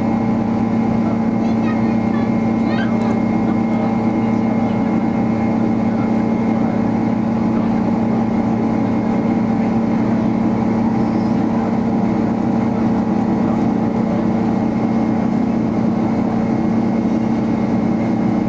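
Steady cabin drone of a Boeing 767 in flight: engine and airflow noise with a constant low hum.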